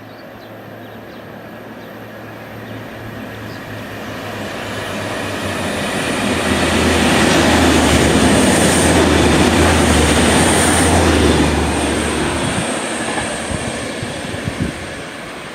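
A train passing by: the noise of wheels on rails builds, stays loud for several seconds in the middle, then fades away, with a low hum and a thin high whine over the loudest part.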